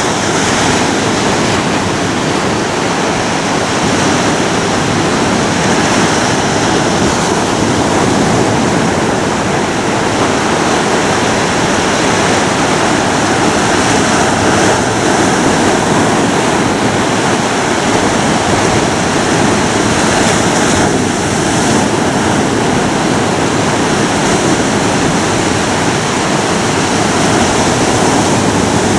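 Ocean waves washing on a shore: a continuous loud rush of surf that swells and eases slowly, with no single wave standing out sharply.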